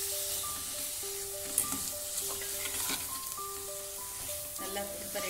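Minced chicken and onion masala sizzling in a nonstick kadai while a metal spatula stirs it, with a few sharp scrapes of the spatula against the pan.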